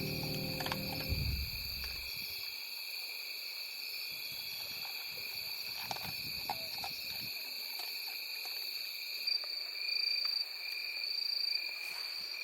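Background music fades out in the first two seconds, leaving a steady, high-pitched trill of insects in the night-time outdoors, with a few faint clicks.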